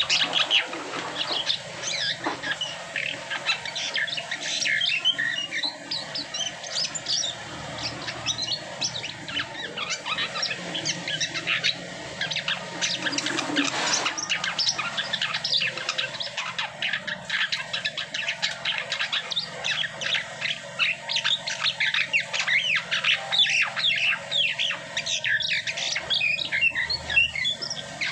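Jalak sutra (jalak kapas) starling singing: a fast, continuous stream of varied chirps, whistles and chattering notes with hardly a pause.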